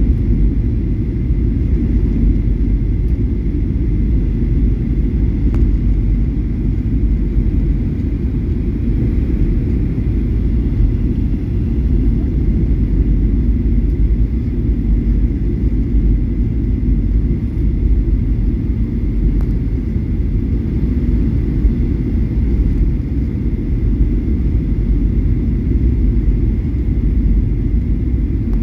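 Boeing 737-800 airliner in flight, a steady low rumble with a faint steady high tone above it.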